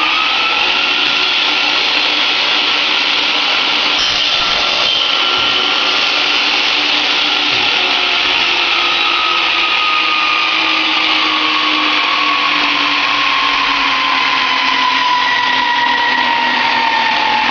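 Electric power tool motor running loud and steady after spinning up, its whine sinking slowly in pitch.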